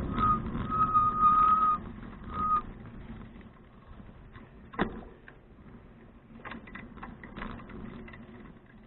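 Bicycle brakes squealing as the bike slows: a steady high squeal for about a second and a half, then once more briefly, while the wind and rolling noise dies away. Afterwards a few faint clicks and one sharp tick.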